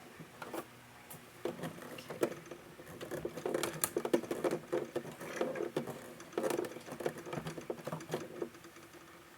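Irregular rustling and light clicks from fabric and sewing things being handled, busiest in the middle stretch and thinning out near the end.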